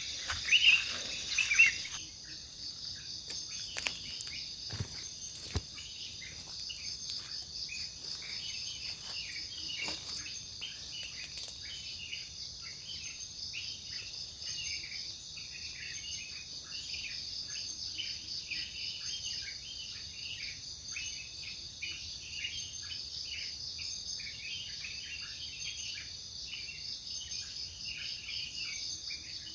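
Forest insects, crickets or cicadas, making a steady high-pitched drone, with many short chirps repeating over it. There are a few soft knocks or rustles in the first couple of seconds.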